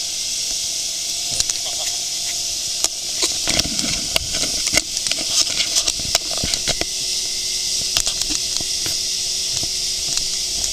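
Steady high hiss throughout, with a cluster of sharp clicks and knocks in the middle.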